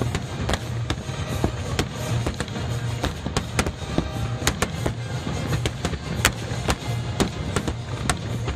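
Fireworks finale: shells bursting in rapid, irregular cracks and bangs, several a second, over steady music.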